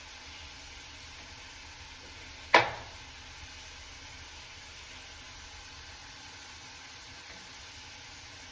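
A single sharp knock about two and a half seconds in, over a steady faint hiss.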